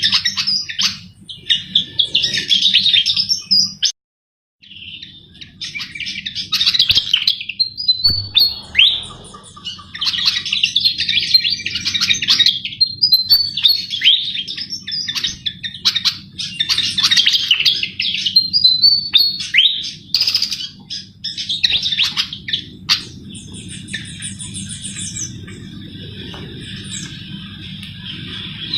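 A sikatan jawa flycatcher singing loud, rapid twittering phrases, one after another with short pauses, over a steady low hum. The sound drops out completely for a moment about four seconds in, and after about twenty-three seconds the song gives way to faint high chirps.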